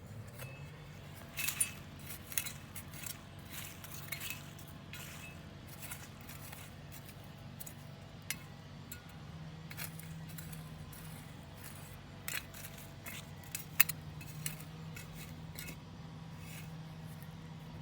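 Irregular sharp clicks and clinks of small hard objects, a dozen or so, the loudest near the end, over a steady low hum.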